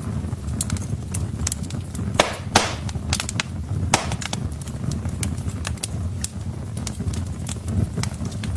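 Wood fire crackling in a fireplace: irregular sharp pops and snaps of burning logs over a steady low rumble, with louder pops about two and a half and four seconds in.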